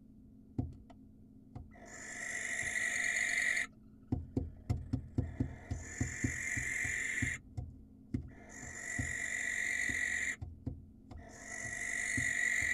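Barn owl giving long, raspy screeching calls, four of them of about two seconds each with short pauses between. A quick run of knocks or clicks comes between the first and second calls.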